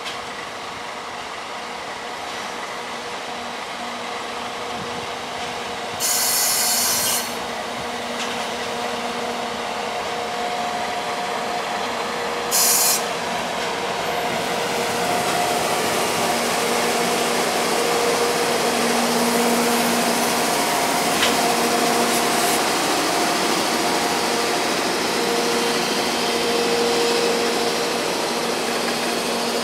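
Container freight train hauled by an EF64 electric locomotive rolling past on the rails as it slows into a station, a steady rumble that grows louder as the wagons pass, with faint whining tones over it. Two short bursts of high hiss break in, about six and about twelve seconds in.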